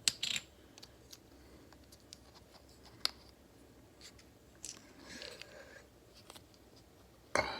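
Small plastic handling sounds as a Star Wars Kyber crystal blind container is twisted open: scattered light clicks and scrapes, then a louder sharp clack near the end.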